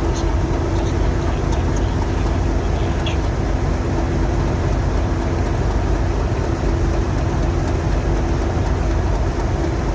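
Diesel train engine running steadily at idle, a deep rumble with a constant hum.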